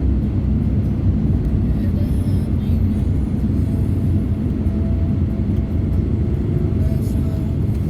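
Steady low rumble of a vehicle on the move, engine and road noise, with a faint thin tone appearing about halfway through.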